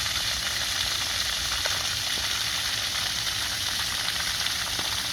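A steady, even hiss with no rhythm or pitch.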